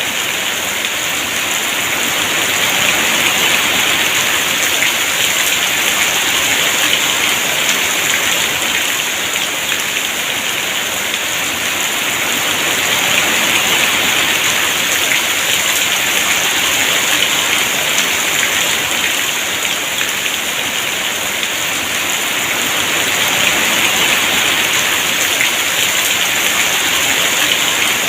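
Heavy rain pouring steadily, a dense even hiss that swells and eases gently every ten seconds or so.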